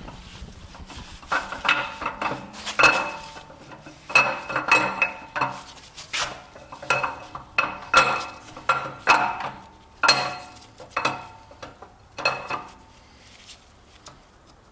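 Hard metal engine parts and tools clanking against each other during an engine teardown: a string of irregular sharp clinks with a brief metallic ring, about a dozen and a half over ten seconds, dying away near the end.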